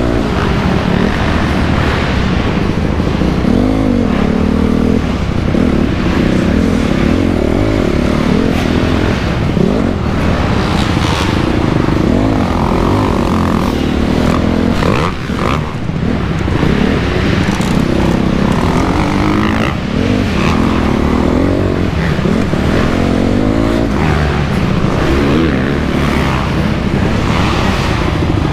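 2008 Honda CRF250R's single-cylinder four-stroke engine revving hard and backing off repeatedly, its pitch rising and falling again and again as it is ridden around a motocross track. The throttle is briefly chopped about halfway through.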